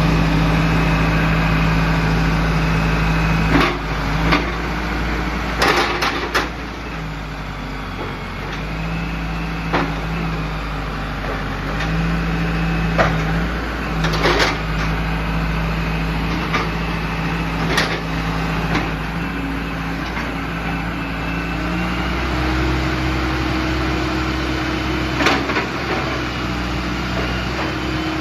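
A backhoe loader's Cummins diesel engine running steadily under varying hydraulic load, its note shifting up and down and stepping higher about three-quarters of the way through. Sharp knocks and clanks come every few seconds.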